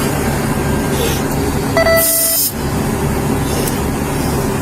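Vehicle engine idling steadily. About two seconds in, a short tone sounds, overlapping a brief burst of hiss.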